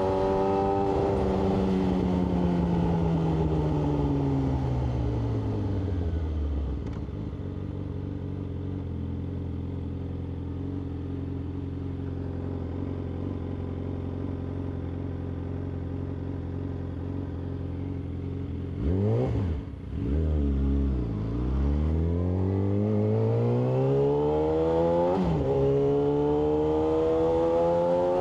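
Yamaha R6 inline-four engine slowing as revs fall, then idling steadily for about twelve seconds. Near the end of the idle it is blipped twice, then it pulls away with rising revs, a gear change about three seconds later, and rising revs again.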